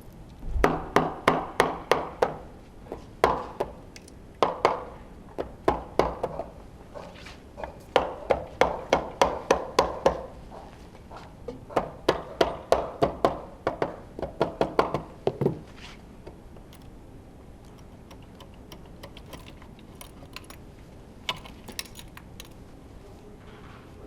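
Runs of quick, ringing blows on metal, about three or four a second, like a hammer tapping parts of a racing engine loose during teardown. The taps come in several bursts, then give way to a few faint clicks.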